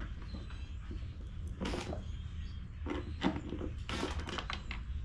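Several short knocks and clicks of blower parts and tools being handled during reassembly, a few seconds apart, over a steady low hum.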